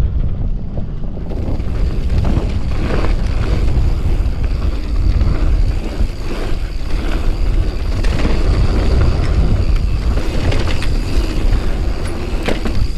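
Wind buffeting the microphone over the rattle and knocks of a mountain bike rolling fast down a dirt trail, with many small impacts scattered throughout.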